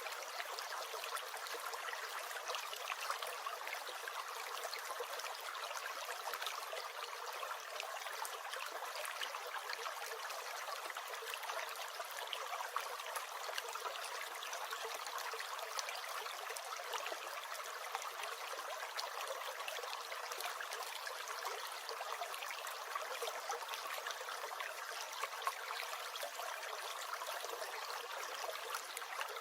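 A small stream gurgling and trickling steadily, a light, busy water sound full of fine splashes with no low rumble.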